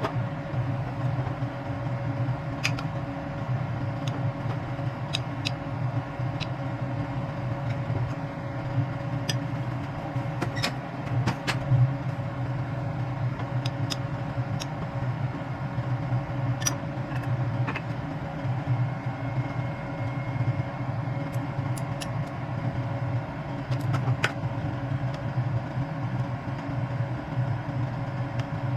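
Steady low mechanical hum with a faint constant tone in it, and a dozen or so short light clicks and taps scattered through.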